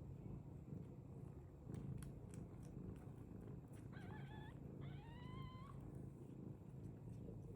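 British Longhair cat purring steadily, with two short meows about four and five seconds in, the second rising in pitch at its end.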